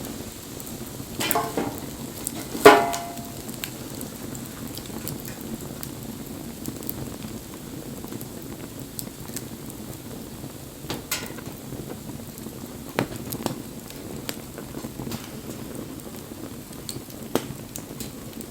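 Wood fire burning with a steady low rustle and scattered crackles and pops. The loudest is a sharp crack with a brief ring about two and a half seconds in, just after a short cluster of crackles.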